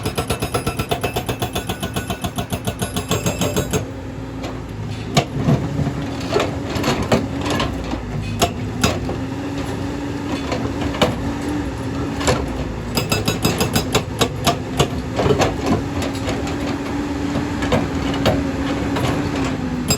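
Excavator working rock, its engine running with a steady hum. A fast, even clatter of about six strokes a second plays for the first few seconds and again over the last seven. Irregular sharp knocks and clanks fill the stretch between.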